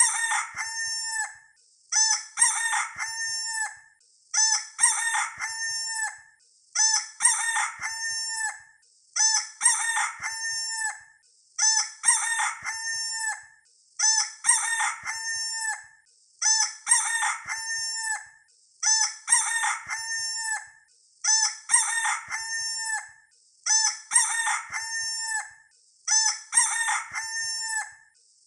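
A rooster crowing, the same cock-a-doodle-doo recording looped about every two and a half seconds, roughly a dozen times, with brief pauses between crows.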